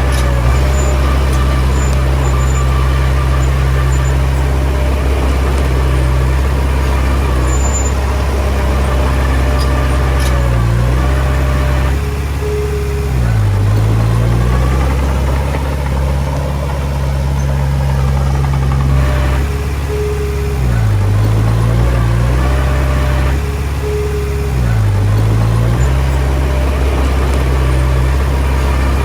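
Komatsu D20P bulldozer's diesel engine running steadily, its pitch dipping and recovering about four times as it lugs under load pushing soil.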